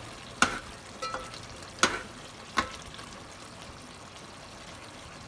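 Chicken curry sizzling steadily in a metal pot on high heat as its water cooks off, with three sharp clinks of a metal slotted spoon against the pot as it is stirred in the first few seconds.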